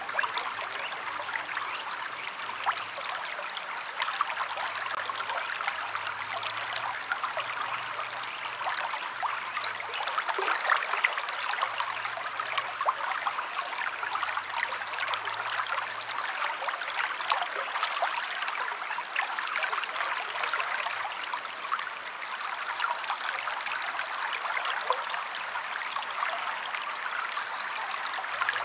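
A stream flowing steadily, a constant rush of water with fine splashing and trickling.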